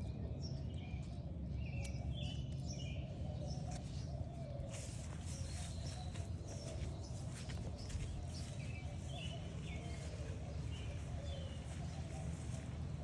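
Small birds chirping in short, scattered calls over a steady low outdoor background hum, with a few brief rustling clicks about five to seven seconds in.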